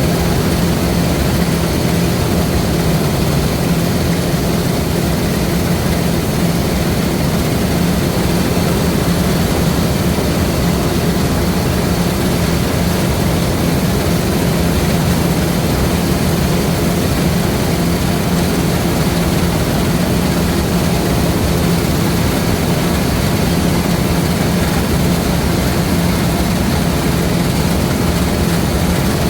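LOVOL RG130 EVO rice combine harvester running steadily, its engine holding an even low hum with a steady drone from the machine.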